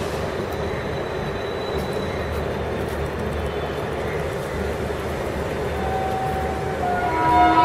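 Steady rumble of a train. About six seconds in, a train horn starts sounding and grows louder, several tones held together.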